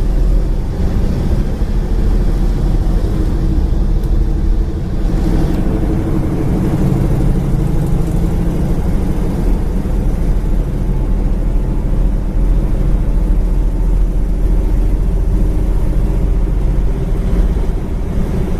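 1965 Ford Thunderbird's 390 V8 running steadily as the car is driven down the road, with continuous low road and tyre rumble.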